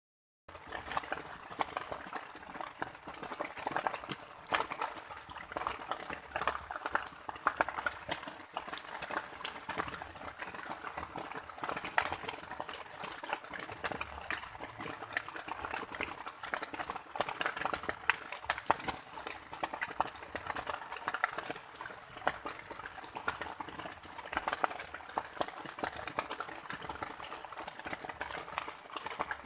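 Steady rain falling, with many separate drops hitting close by in a dense, irregular stream of ticks.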